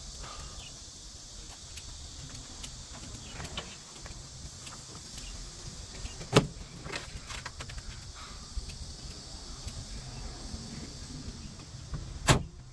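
Steady outdoor background hiss and low rumble, broken by a few sharp knocks: a loud one about six seconds in and another near the end.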